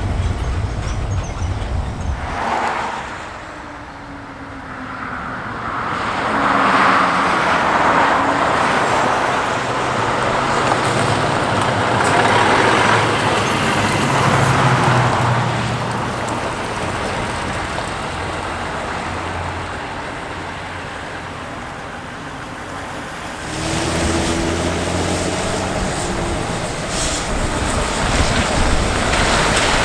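Heavy truck engines running as race transporters drive past, the engine note rising and falling. About three-quarters of the way through the sound changes suddenly to another truck.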